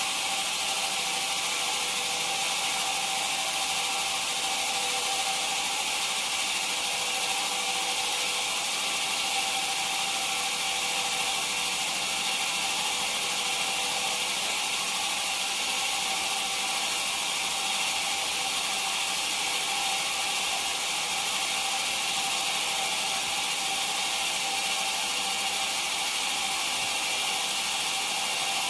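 Sawmill machinery running steadily: a constant whine over hiss that does not change throughout.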